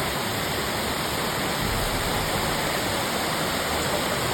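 A waterfall's steady rushing water, even and unbroken.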